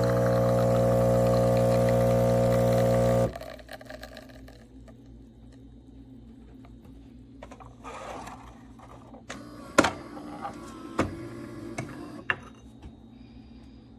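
Philips Series 2300 espresso machine buzzing loudly and steadily for about three seconds, then stopping abruptly. A few sharp clicks or knocks follow later.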